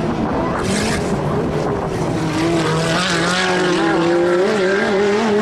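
Race car engines running on a circuit. A car passes close about half a second in with a rush of noise, and an engine's pitch then rises and dips as the throttle is worked.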